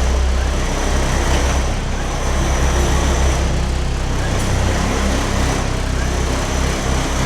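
Motor vehicle running: a steady low engine and road rumble with an even noise haze, no sudden changes.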